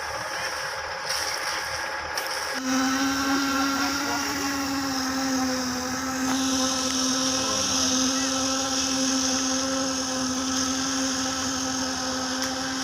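A machine motor starts about two and a half seconds in and then runs with a steady, even hum over the sounds of the work site.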